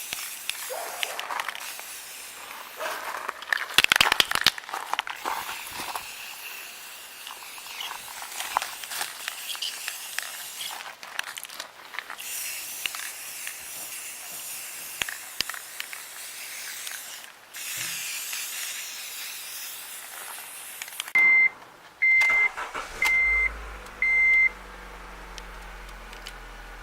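Aerosol spray paint can hissing in bursts as bare steel is given another coat, with scattered clicks and pauses. Near the end the hiss gives way to four short electronic beeps at one pitch, about a second apart, and a low steady hum begins.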